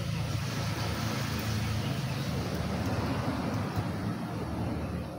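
Road traffic noise: vehicles passing, with a steady low engine hum.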